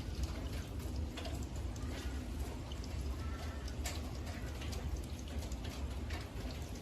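Rain falling and dripping in many small irregular ticks over a steady low rumble, with a bird calling briefly about three seconds in.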